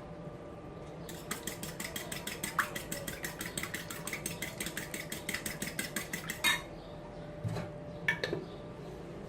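Eggs being beaten in a bowl: a metal utensil clicks rapidly and evenly against the bowl, about seven strokes a second, for about five seconds, then a couple of separate knocks near the end.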